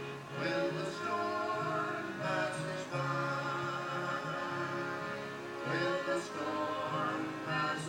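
Gospel music played live with singing voices, holding long notes that change every second or so.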